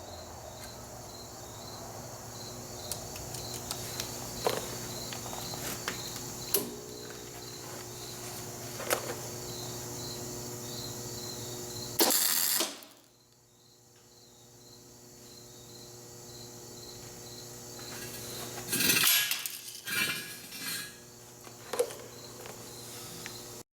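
Steady electrical hum with scattered light clicks and taps, broken about halfway through by a short burst of welding crackle and near the end by several more short bursts: tack welds spotting a pin in place.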